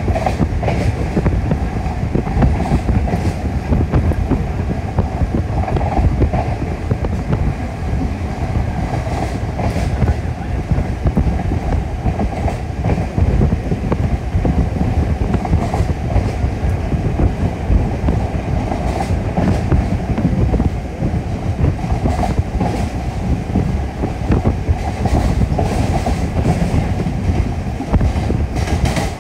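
Passenger coach of a Class 13 diesel train running at speed: a steady rumble of wheels on rail with the odd clickety-clack of rail joints. It is heard from inside the car with the windows open.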